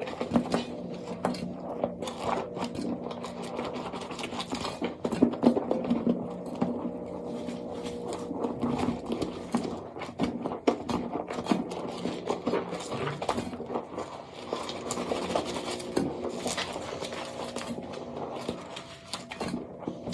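Dry soap being scraped, a dense, irregular run of crisp crackles and scrapes, over a faint steady low hum.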